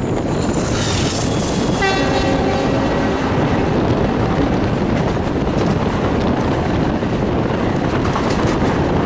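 Steady running noise of a moving Indian Railways passenger train, with a train horn sounding about two seconds in for roughly a second.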